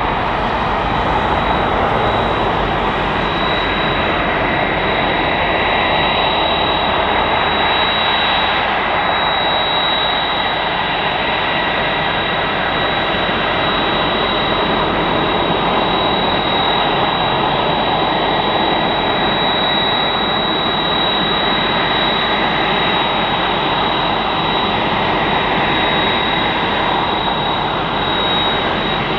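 Boeing 767-300ER freighter's jet engines running, a steady broad rush with a constant high whine over it.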